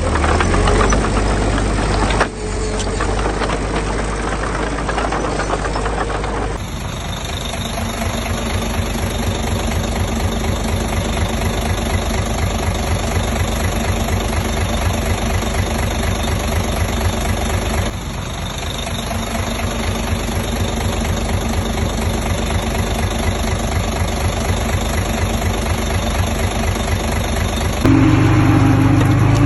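Heavy construction machine diesel engines running with a steady pulsing clatter, the sound shifting abruptly several times as clips change.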